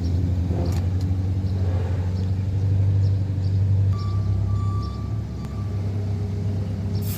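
Car engine idling with a steady low hum. Right at the end a can of WD-40 starts spraying with a sudden loud hiss.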